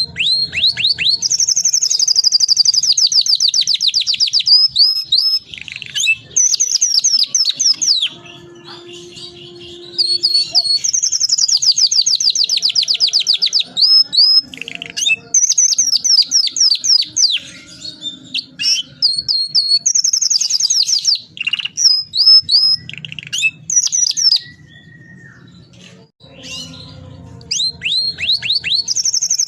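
Domestic canary singing in full voice: long rolling trills of fast repeated high notes, several seconds each, broken by a few short pauses.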